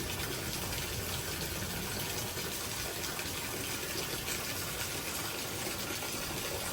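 Heavy thunderstorm downpour pouring steadily, with gusting wind.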